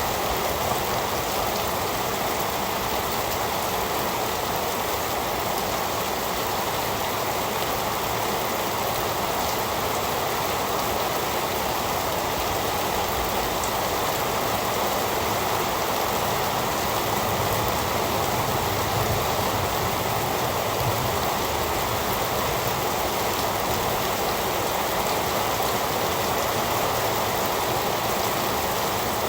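Heavy rain falling in a steady, even hiss, with no distinct drops or thunder standing out.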